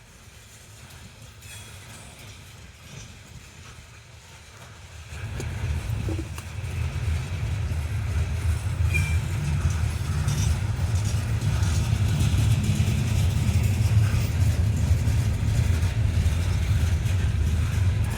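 Coal train rumbling past. The rumble starts about five seconds in and stays loud, with a brief high squeal near the middle.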